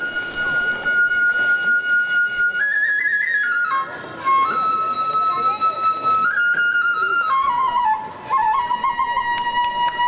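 Japanese bamboo kagura flute playing a slow melody of long held notes that step up and down with small bends, with a few faint taps near the end.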